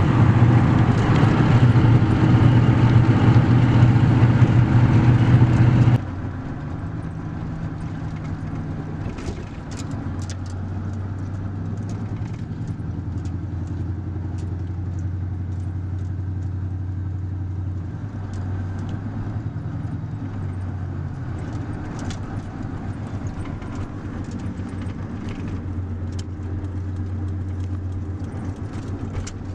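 Pickup truck running on the road, a steady engine hum with road noise. About six seconds in it drops abruptly to a quieter, lower steady engine hum, with scattered sharp clicks.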